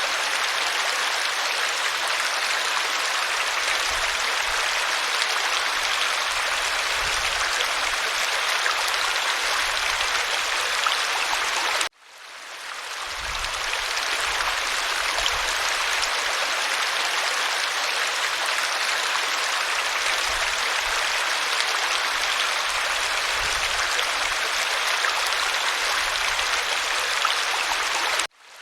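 Waterfall water rushing steadily. The sound cuts out abruptly about twelve seconds in and again near the end, each time fading back in over a second or two: the seams where the recording is looped.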